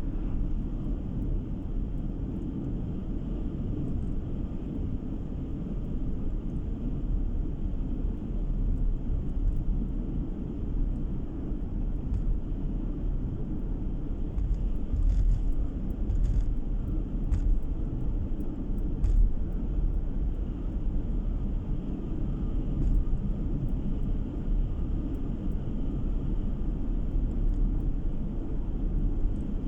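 A car driving along a road, heard from inside the cabin: a steady low rumble of tyres and engine, with a few faint clicks about halfway through.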